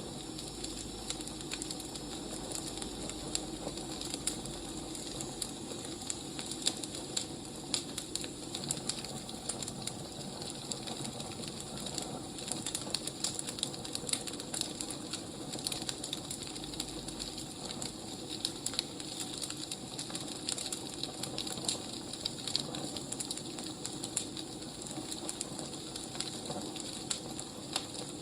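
Burning firewood crackling steadily, with irregular sharp pops over a soft hiss.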